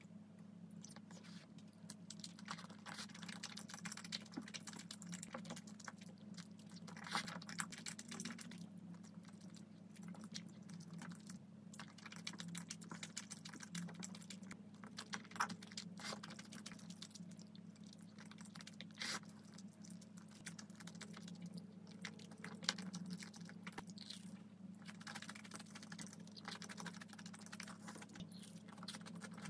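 Close-miked eating sounds of rosé tteokbokki: chewing and soft wet mouth sounds, with many small clicks of chopsticks in the saucy rice cakes and against the bowl. A faint steady low hum runs underneath.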